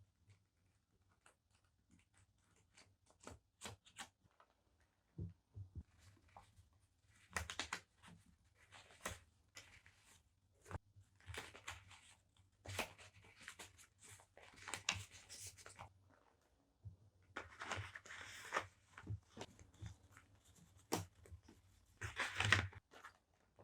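Small stationery items and their packaging being handled: light taps and clicks, then repeated short bursts of packaging crinkling and rustling.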